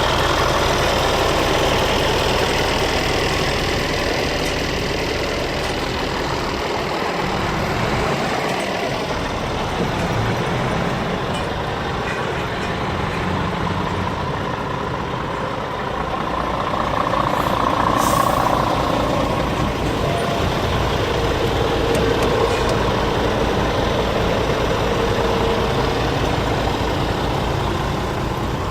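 Scania R450 truck's diesel engine running steadily, with a brief sharp sound about two-thirds of the way through.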